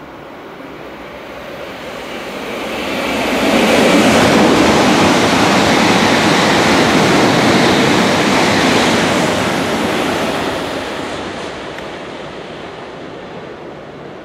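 E7 series Shinkansen passing through a station at full speed without stopping: a rushing noise of wheels and air that builds over a couple of seconds, holds loud for about six seconds, then fades as the train draws away.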